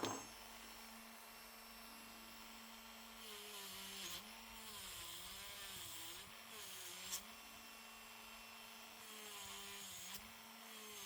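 A small electric power tool running steadily, its motor pitch dipping and recovering repeatedly as it is pressed against the work, with a sharp click at the start and another about seven seconds in.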